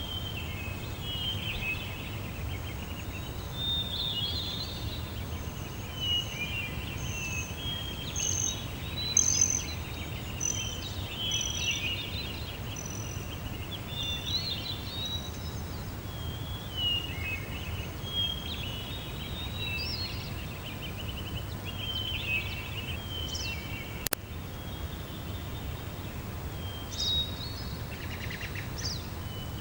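Several birds chirping and singing over a steady low background rumble, with a run of short, evenly spaced high whistles in the first half. A single sharp click sounds about two-thirds of the way through.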